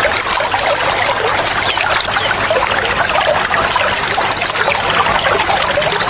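Running water pouring and splashing steadily, with many small birds chirping over it in quick, short, high falling notes.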